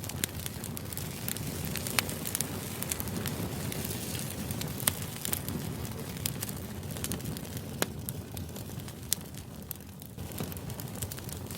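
Steady low rushing noise with frequent, irregular sharp crackles and clicks, like a background white-noise ambience.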